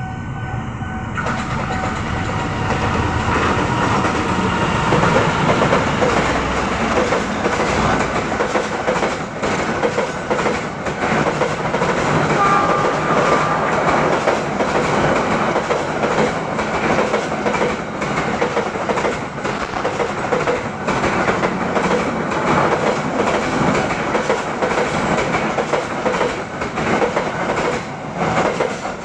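A diesel-hauled long-distance passenger train running through a station without stopping. Its wheels clack steadily over the rail joints as the carriages go by.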